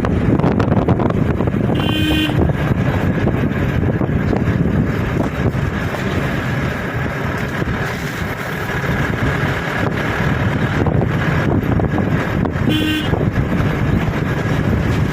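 Steady wind noise buffeting the microphone over rushing floodwater, with two short toots of a vehicle horn, one about two seconds in and one near the end.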